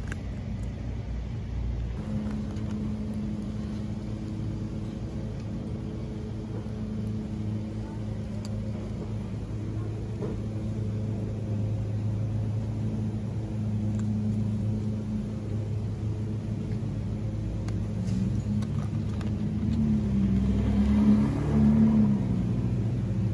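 A motor vehicle's engine running steadily close by with a low hum, growing louder and wavering in pitch near the end as if revving or pulling away.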